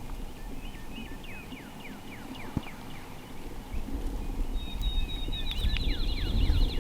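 A songbird singing a run of repeated down-slurred whistled notes, pausing and then starting a faster run, with low wind rumble on the microphone and a single click near the middle.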